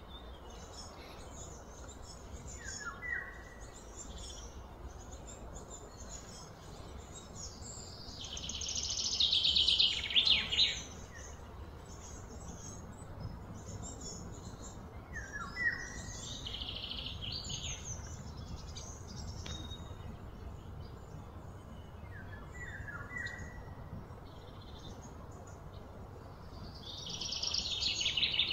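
Birds chirping, with short falling calls now and then and, twice, a louder high buzzing trill that builds over a few seconds and cuts off, over a steady low background rumble.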